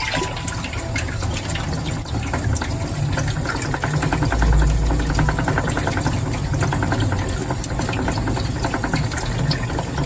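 A Sakai Deba knife being sharpened on a wet stone, with water running and a steady low hum under it. A run of quick, even scraping strokes comes through in the middle.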